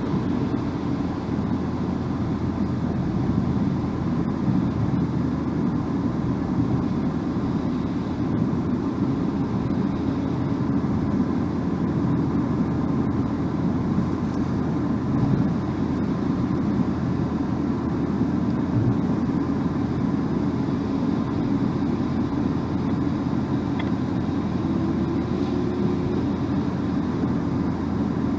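Steady drone of a car driving at road speed: tyre and engine noise, deep and even, with no changes.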